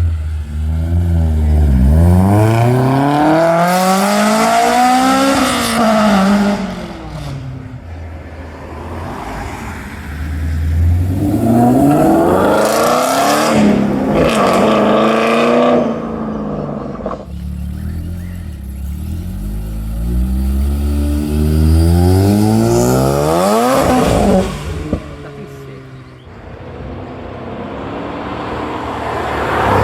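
Cars accelerating hard away one after another, each engine revving up in a steeply rising pitch and then backing off. There are three long pulls, and a fourth begins near the end.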